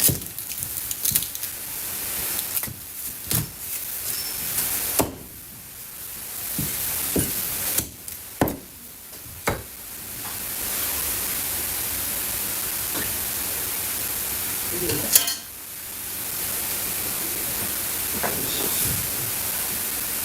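Scattered knocks and clatters of kitchen utensils and containers, about a dozen at uneven intervals with the loudest about fifteen seconds in, over a steady hiss.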